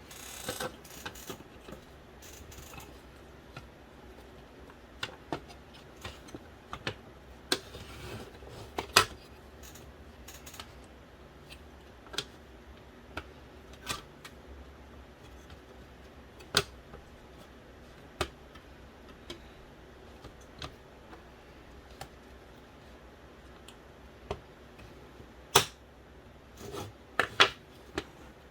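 Scattered sharp clicks and taps of the small parts of an original Xbox's Philips DVD drive being handled during disassembly or reassembly, with a brief rustle about eight seconds in, over a low steady hum.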